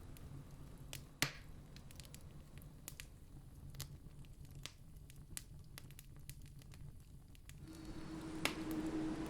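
Wood campfire crackling, with scattered sharp snaps and one loud pop about a second in. Near the end, a low rumble with a steady hum swells up under the crackle.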